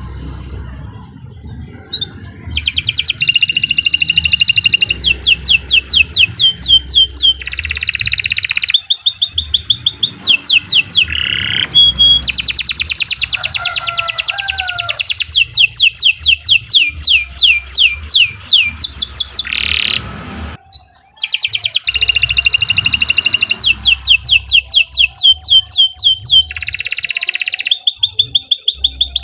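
Domestic canary singing long, fast trills of rapidly repeated high notes, switching between trill types, with a brief break about two-thirds of the way through.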